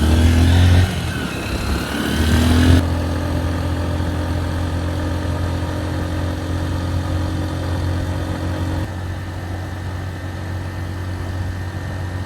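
Honda XR150L's small single-cylinder engine under way, its pitch rising and shifting for the first few seconds, then running at a steady speed.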